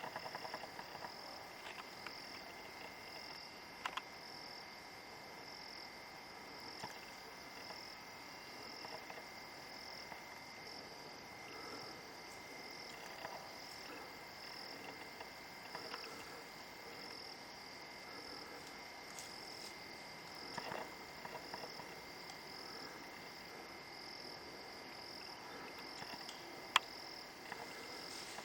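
Insects calling steadily in a high, evenly pulsing drone about twice a second, over a second thin steady tone. A few faint clicks are scattered through it, with one sharper click near the end.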